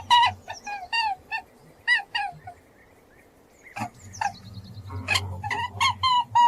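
A quick series of short, high-pitched animal calls, a few a second, breaking off about two seconds in and starting again after a short lull, over a steady low hum.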